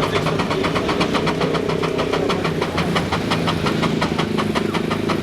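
An engine running steadily with a rapid, even beat of about five pulses a second.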